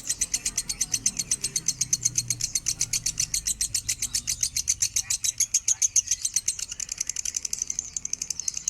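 Lovebird singing a long, unbroken run of rapid high chirps, about eight a second.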